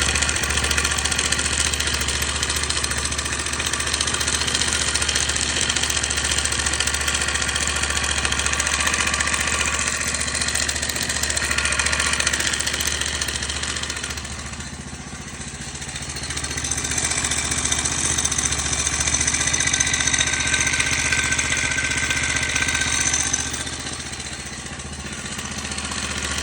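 Pit bike engine running steadily, with the knocking and rustling noise whose cause the owner is asking about. The sound drops in level twice, about halfway through and near the end, and each time rises again.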